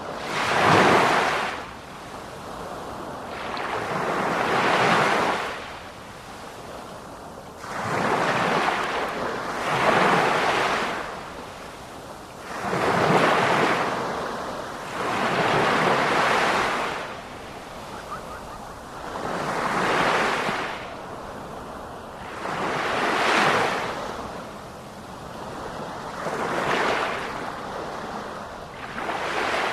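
Ocean waves breaking on the shore, one surge of surf every three to four seconds, each swelling into a hiss and washing back out.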